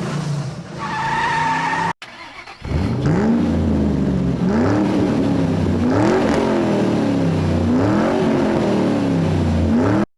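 Car tyres squealing for about two seconds, then a car engine revving up and down over and over, about once every second and a half to two seconds, cutting off abruptly.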